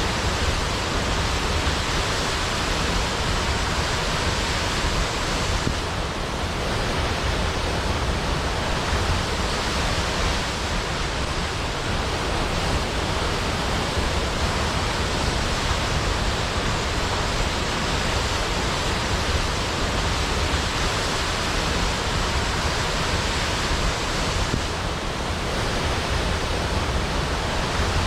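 Large waterfall cascading down a cliff: a steady, dense rush of falling water.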